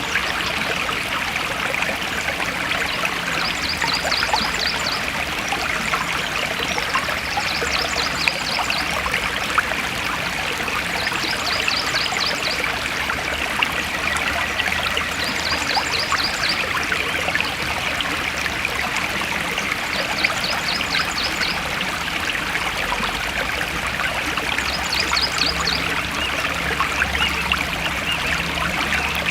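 Forest stream flowing and trickling steadily. A short, rapid high trill repeats about every four seconds over the water.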